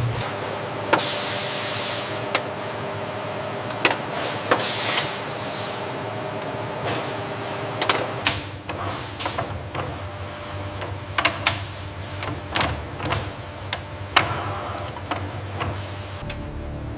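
Factory machinery: several hissing air releases and many sharp metallic clicks and clanks over a faint steady machine hum.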